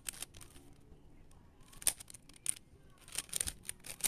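Plastic Rubik's-type cube being turned in the hands: a series of irregular sharp clicks as the layers snap round.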